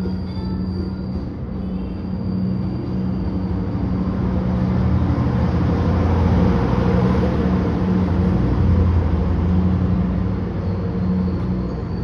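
A diesel-hauled passenger train pulling into a station: a steady low engine drone with rumble that builds to its loudest about halfway through, then eases slightly.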